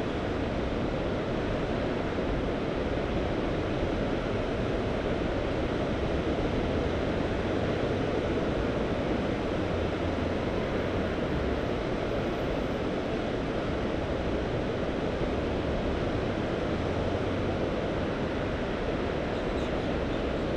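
Steady wash of Mediterranean sea waves on the shore, with a continuous low rumble of wind on the microphone.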